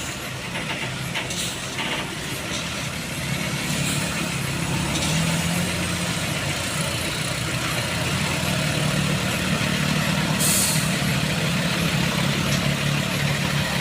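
Heavy truck engine running steadily, with a short hiss of air about ten seconds in.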